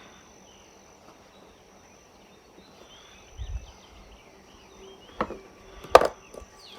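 Faint birds chirping in the background, with a soft low thump partway through and two sharp knocks near the end, the second the loudest.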